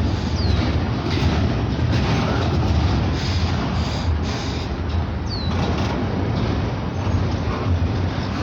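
Long freight train rolling past, a steady rumble of wheels on rail, with two brief high falling squeals from the wheels, about half a second in and about five seconds in.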